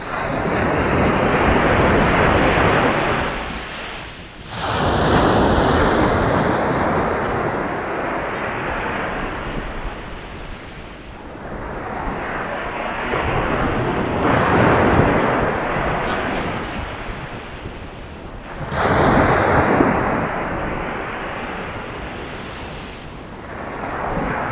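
Sea waves breaking and washing up the shore, each surge swelling and fading over several seconds, with new waves rushing in about four times.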